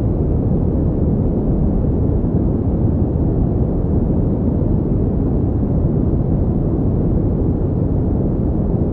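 Pink noise: a steady, unchanging rushing hiss with most of its weight in the low end and little above about 1 kHz.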